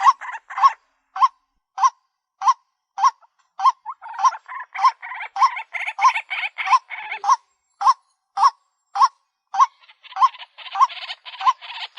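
White-breasted waterhen calling: a steady series of short, croaking notes, nearly two a second. A denser, harsher chatter joins in around the middle and again near the end.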